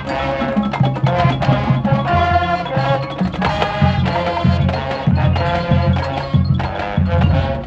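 Marching band playing, sustained wind-instrument notes over a steady pattern of drum hits.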